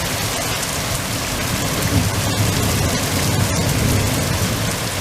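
Heavy rain pouring steadily, with a low rumble of thunder rolling through the middle.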